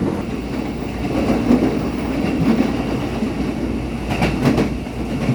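KRL Commuter Line electric train running, heard from inside the carriage: a steady rumble of wheels on track, with a few sharp clicks of the wheels over rail joints about four seconds in.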